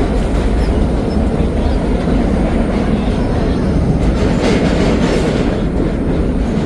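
Vintage subway car in motion, heard from inside: a loud, steady rumble of wheels on rail with a few faint clicks from rail joints.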